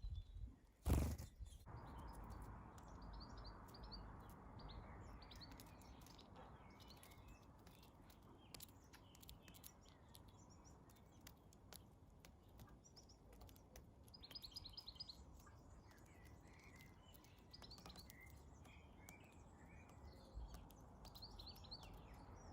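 Faint chirping of small garden birds: short high calls scattered throughout, with a quick run of repeated notes a little past the middle. A single loud thump about a second in.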